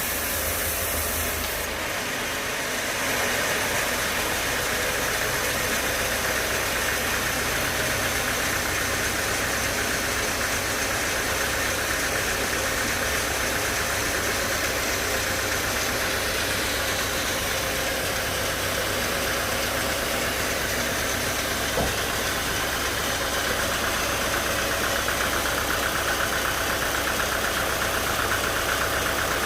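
Sawmill machinery running steadily, its tone shifting about two seconds in, with a single short knock about three quarters of the way through.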